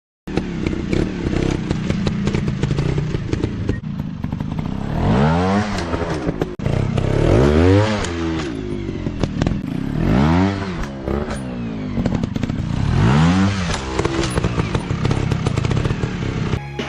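Dirt bike engines running over rough ground, revved up and let back down four times, with scattered clattering knocks.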